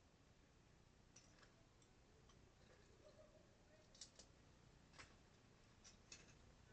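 Near silence with a handful of faint, sharp clicks of plastic Lego pieces being handled and pressed together, mostly in the second half.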